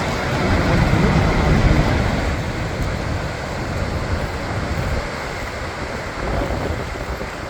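Gullfoss waterfall roaring: a steady rushing of falling water with a deep rumble, easing a little toward the end.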